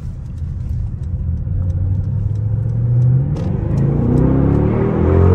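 Mercedes-AMG GLE 63 S twin-turbo V8 accelerating, heard from inside the cabin, its engine note climbing in pitch through the second half.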